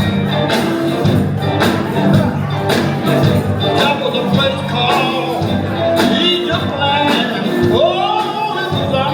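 Live gospel band music with a steady beat and a voice singing over it.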